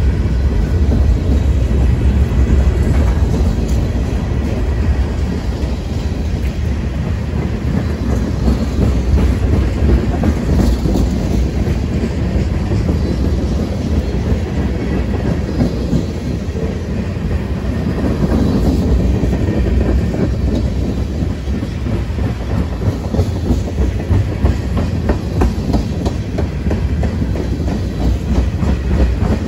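Freight train of tank cars rolling past close by: a loud, steady rumble of steel wheels on rail, with rapid wheel clicks over the rail joints that grow busier near the end.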